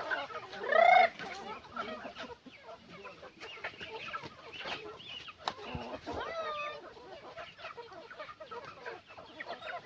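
A flock of native chickens clucking, many short calls overlapping, with a loud squawk about a second in and another drawn-out call a little past halfway.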